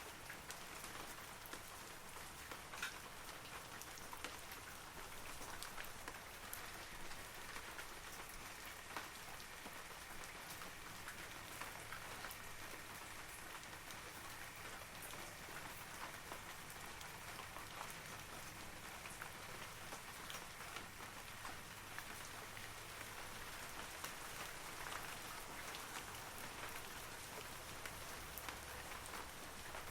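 Steady rain falling on forest trees: an even hiss with many individual drops pattering and ticking on leaves.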